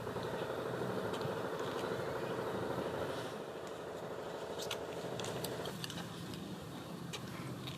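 Steady hum of a motor vehicle's engine running, easing off a little about six seconds in, with scattered faint high clicks.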